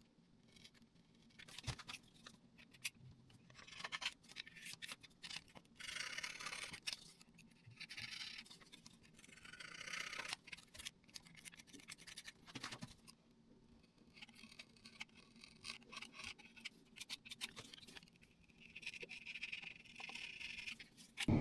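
Repeated scratchy scraping or rubbing strokes on a hard surface, each about a second long, with scattered sharp clicks and taps between them.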